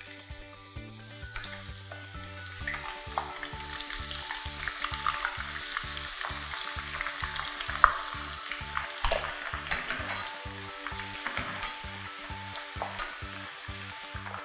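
Sliced shallots frying in hot oil in a pan, with a steady sizzle full of small crackles as they are stirred. A sharp click comes about eight seconds in. Soft background music with a steady beat runs underneath.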